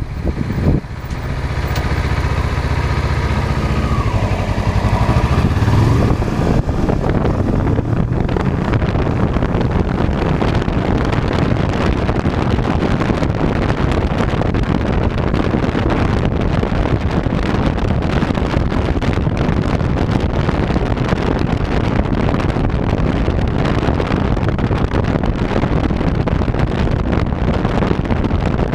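Wind rushing over a body-mounted camera's microphone during a ride, a steady noisy roar. For the first six seconds or so an engine hum runs under it and rises in pitch, then fades into the wind.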